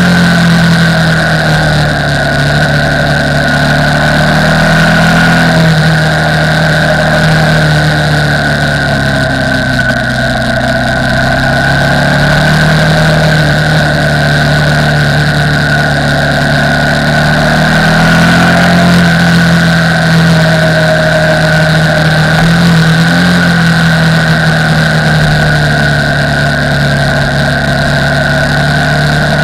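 KTM 990 Supermoto R's LC8 V-twin engine running while the bike is ridden, its pitch rising and falling gently with small changes in revs.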